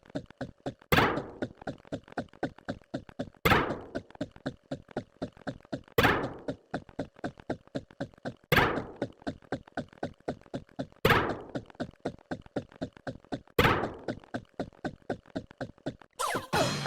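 Looped percussive sound effect: a loud thunk about every two and a half seconds, each followed by a quick run of fading knocks, repeating evenly.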